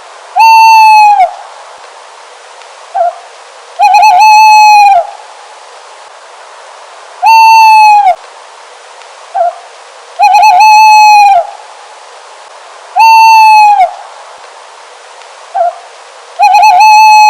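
An owl hooting: long, clear calls of about a second each, repeating every three seconds or so. Some calls begin with a quaver, and a short, quieter note falls between some of them.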